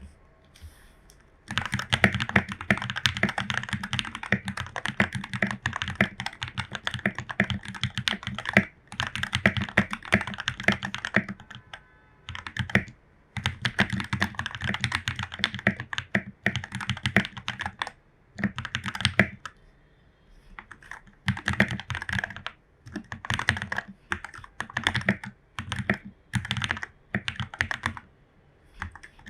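Typing on a Royal Kludge RK84 mechanical keyboard with lubed Jwick Yellow linear switches, PE foam and a tape mod: fast runs of keystrokes broken by short pauses. The typing starts about a second and a half in.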